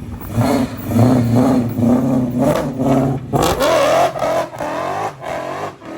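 A car engine being revved: a run of short throttle blips, then from about halfway through longer revs that climb and fall in pitch.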